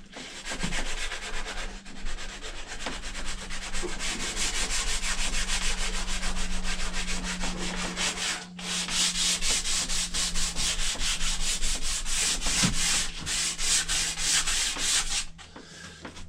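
Sandpaper rubbing on a wooden axe handle in rapid, even back-and-forth strokes, taking off blue marks left by the hammer. The strokes break off briefly a little past halfway and stop shortly before the end.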